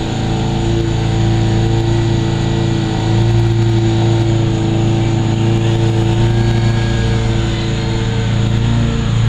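WLtoys V911 micro RC helicopter's electric motor and rotor whirring steadily in flight, getting a little louder about three seconds in.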